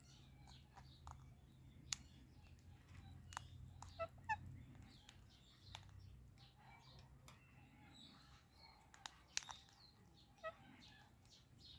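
Parrots making faint, scattered short chirps and sharp clicks, over a low steady hum.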